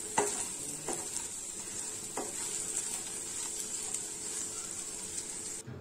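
Taro root slices frying in oil in a pan, with a steady sizzle. A metal spatula stirs and scrapes against the pan a few times in the first couple of seconds. The sizzle cuts off suddenly near the end.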